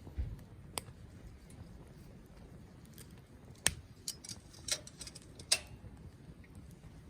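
Wood campfire crackling: scattered sharp pops and snaps at irregular intervals, the loudest a little past halfway, over a low steady background, with a dull low thump at the very start.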